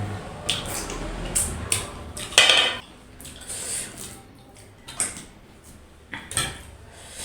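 Dishes and utensils clinking and scraping while someone eats, as a series of sharp knocks and clatters. The loudest clatter comes about two and a half seconds in.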